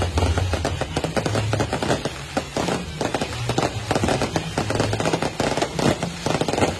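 Fireworks and firecrackers going off in a dense, rapid, irregular string of crackling bangs, with a low drone underneath that comes and goes.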